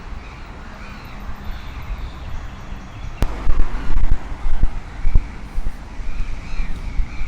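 Street ambience: traffic noise with wind gusting on the microphone, and a sharp click about three seconds in.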